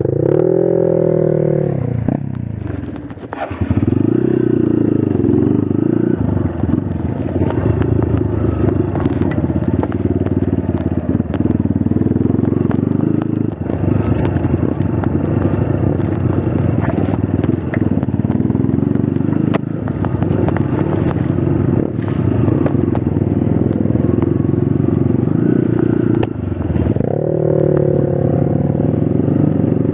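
Trail motorcycle engine running hard under throttle over rough ground, revving up near the start and again near the end, with a brief drop off the throttle a few seconds in. Scattered knocks and clatter come through over the engine.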